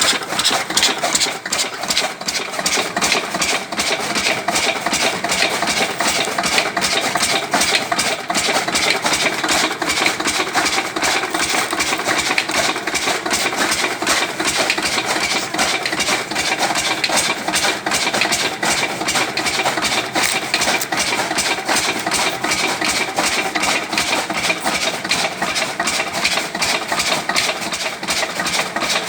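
An 8 hp Lister-type single-cylinder diesel engine running steadily with fast, even firing beats while it belt-drives a sugarcane chaff cutter.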